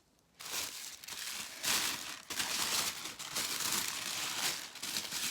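Tissue paper crinkling and rustling as a wrapped book is pulled out and unwrapped by hand. The rustling starts about half a second in and goes on unevenly, in irregular bursts.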